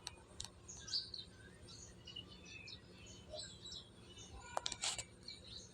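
Small birds chirping: many short, high chirps scattered over a faint background hum, with a few sharp clicks near the end.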